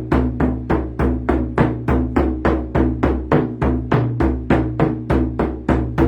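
Steady drumbeat, about three even strokes a second, each with a low ringing tone.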